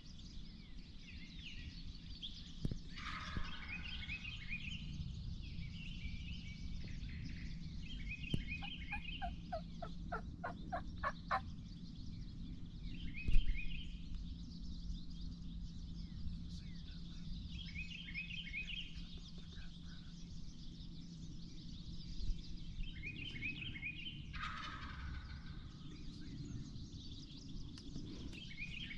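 Wild turkey gobbler gobbling repeatedly, about six gobbles spread through the stretch. Near the middle comes a quick run of about ten evenly spaced yelping notes, and a single sharp knock follows a couple of seconds later.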